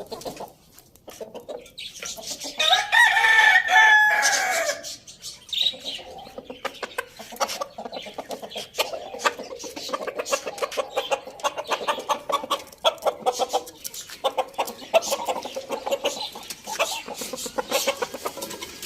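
Chickens clucking, with one rooster crow of about two seconds near the start, over a scatter of short sharp ticks.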